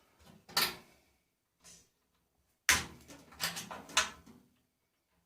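Small hand snips cutting brass terminal ends off wires: a few sharp snaps with light metal clatter between them.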